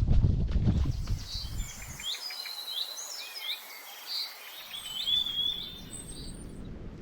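Wind buffeting the microphone for the first second or so, then a songbird singing a rapid series of chirps and whistling glides, high-pitched, until near the end.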